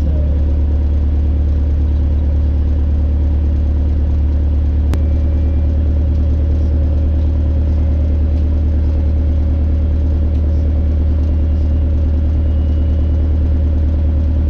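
Socata TB10 Tobago's four-cylinder Lycoming piston engine idling steadily on the ground shortly after start-up, its propeller turning over at a low, even speed. A single faint click about five seconds in.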